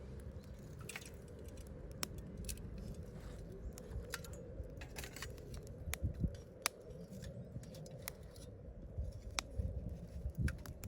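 Wood campfire crackling, with irregular sharp snaps and pops from the burning wood over a steady low rush of the flames.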